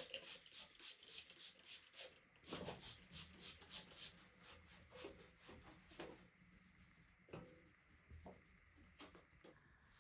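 Quick back-and-forth rubbing or scrubbing strokes by hand, about four a second, which give way about four seconds in to scattered light clicks and taps of small parts being handled.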